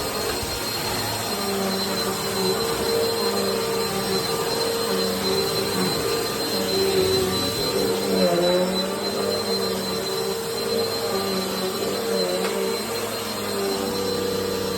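Bissell PowerTrack upright vacuum cleaner running, with a steady high whine over a motor hum whose pitch wavers a little as it works.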